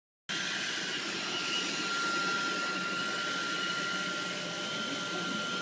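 A steady mechanical whirring noise with a constant high whine running through it. It cuts in abruptly just after the start.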